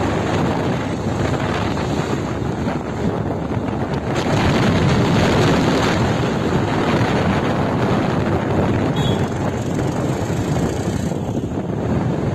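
Wind rushing over the microphone on a moving vehicle, a steady loud roar of air and road noise that swells for a couple of seconds about four seconds in.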